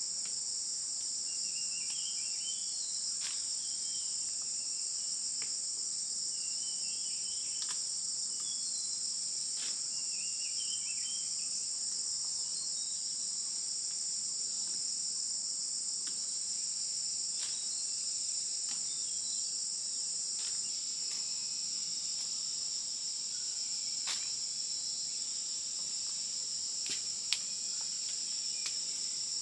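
Steady, high-pitched drone of insects shrilling without a break. Faint short chirps come over it in the first dozen seconds, and a few sharp clicks sound near the end.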